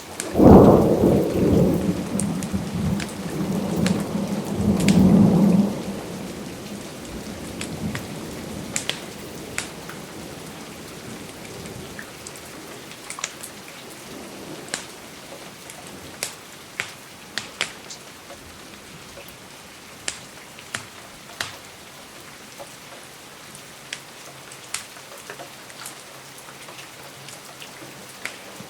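A thunderclap breaks at the start and rolls on for about six seconds, swelling again near the fifth second before dying away. Steady rain hisses throughout, with scattered sharp crackles from a fireplace.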